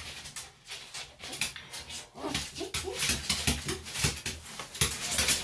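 Senior Bichon/Shih Tzu cross whimpering in short bursts amid scuffling and clicking, as it squirms and protests while its ears are being worked on.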